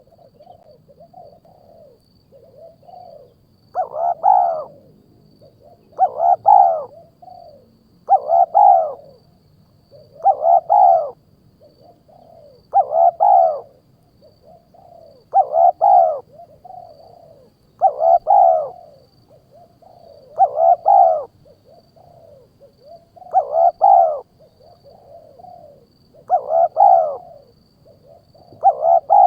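A bird call repeated over and over, about once every two and a half seconds: each call is a short, loud, pitched burst with softer wavering notes between the bursts.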